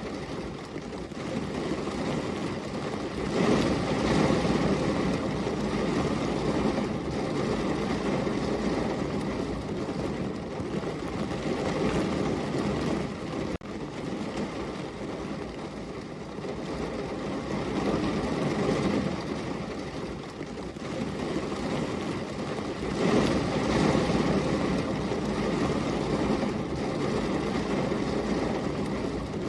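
Steady heavy rain falling as a continuous hiss, swelling louder a few times.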